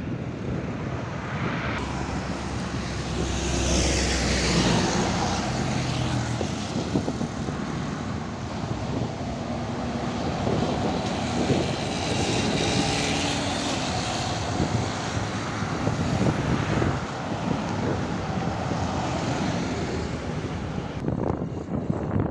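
Heavy diesel trucks driving past on a highway, engine drone mixed with tyre and wind noise, swelling as vehicles pass about four seconds in and again around twelve and sixteen seconds.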